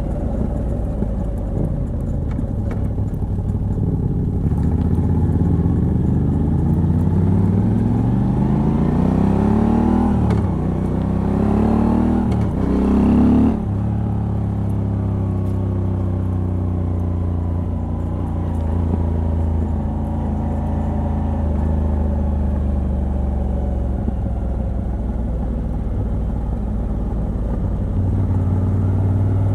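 Moto Guzzi V85TT's air-cooled transverse V-twin, with a de-cat pipe on the stock exhaust, pulling hard with the revs climbing through a gear change. A few seconds later the throttle shuts and the revs drop sharply, then wind down gradually into a steady cruising drone.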